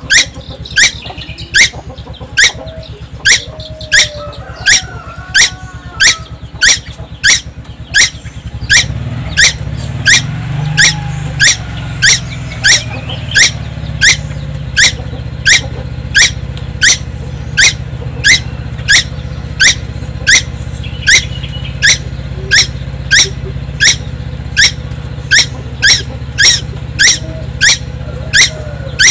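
Young tuwu bird calling nonstop: a sharp, high, rising chirp repeated about twice a second. A low steady hum comes in underneath about nine seconds in.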